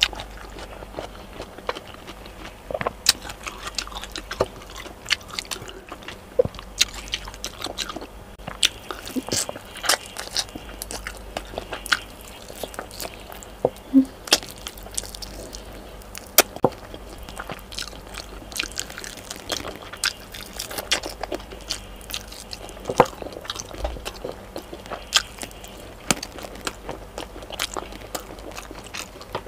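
Close-up eating sounds of chicken adobo and rice being chewed and bitten: wet chewing with many sharp, irregular mouth clicks and smacks.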